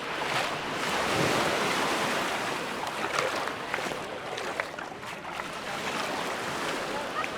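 Small Mediterranean waves breaking and washing up the beach, the surf swelling about a second in and then easing back.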